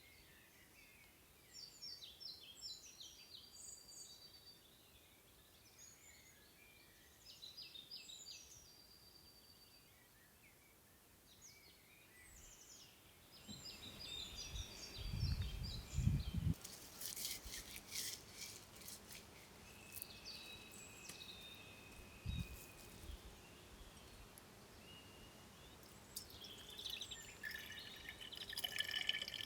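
Songbirds singing in short, repeated chirping phrases for about the first half. Then the birds give way to handling noises: a few low thumps, a quick run of sharp clicks and clatter, another single thump, and more clatter near the end.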